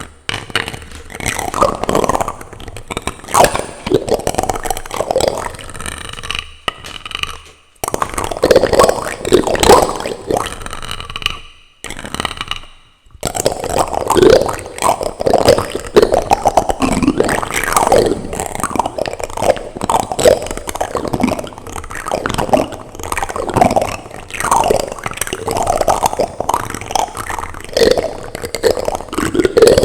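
Plastic utensils rubbed, tapped and scraped directly on a microphone: a dense, close run of scratchy scrapes and clicks, broken by brief pauses about 8 seconds in and again around 12 to 13 seconds.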